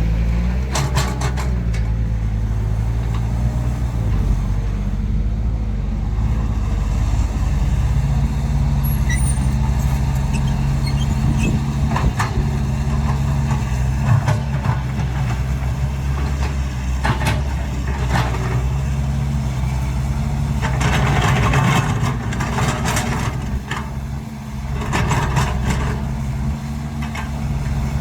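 Heavy diesel engine of a Cat 312 excavator running steadily under load while it loads soil onto a truck, with scattered knocks and two spells of hissing noise near the end.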